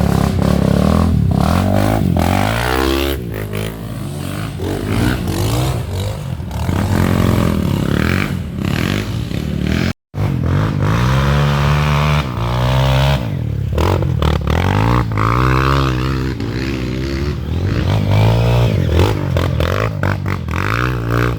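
Off-road trail motorcycle engines revving, the pitch rising and falling again and again as the bikes are throttled through. The sound cuts out briefly about ten seconds in, then the revving carries on.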